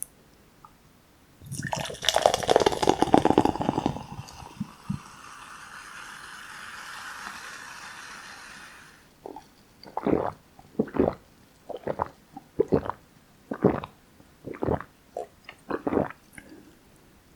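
Close-miked wet eating sounds of saucy Jjapaghetti black bean noodles. A loud squishy, crackling burst comes about two seconds in, followed by a steadier hiss, then about a dozen separate wet smacks in the second half.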